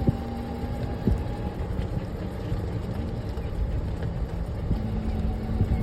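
Golf cart driving along: a steady low hum with a faint droning tone and a few light knocks.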